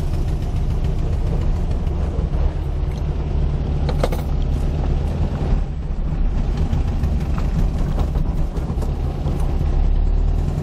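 A 1970 VW Beetle running steadily, a low, even engine hum with a brief click about four seconds in.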